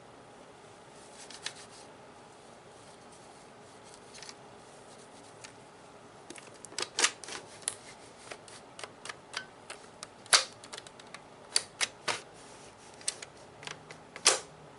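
Sharp clicks and taps on a plastic Nerf gun. Sparse and faint at first, then from about six seconds in a quick irregular run of clicks, several of them loud.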